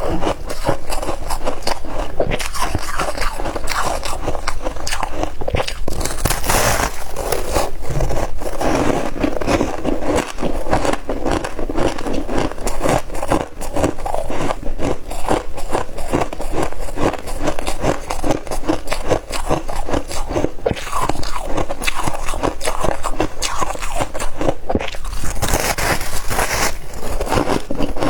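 Crispy frozen ice being bitten and chewed close to the microphone: a dense, continuous run of sharp crunches and crackles.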